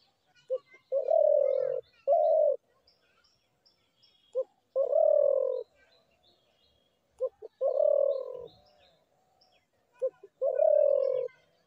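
Spotted dove cooing: four call phrases about three seconds apart, each one or two short notes followed by a longer low coo. Faint high chirps of small birds between the calls.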